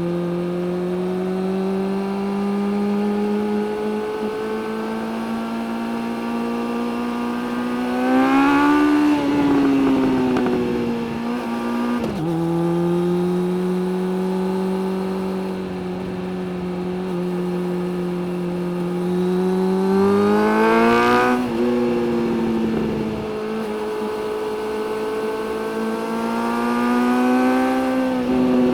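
Suzuki GSX-600F's inline-four engine pulling under way, its note climbing slowly through the gears. It rises sharply in two hard bursts of acceleration, about a third of the way in and again about two thirds in, and each time drops back as a gear is changed.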